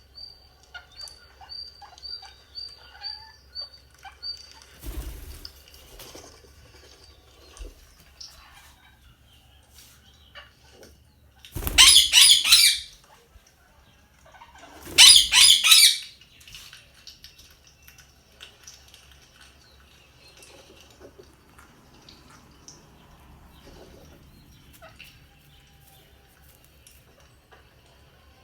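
Indian ringneck parakeet: a run of short, high, evenly repeated chirps in the first few seconds and faint scattered chirps throughout. Two loud harsh bursts, each about a second long, come roughly three seconds apart near the middle.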